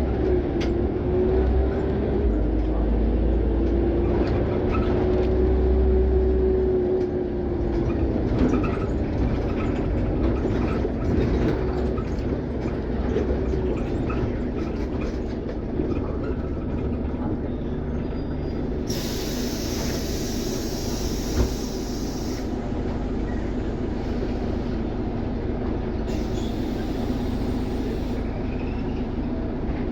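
Scania OmniCity city bus under way, heard from inside: a steady low engine and road rumble, with a drivetrain whine that rises and falls over the first several seconds. Two bursts of compressed-air hiss come from the bus's pneumatics, about two-thirds of the way through and again shortly after.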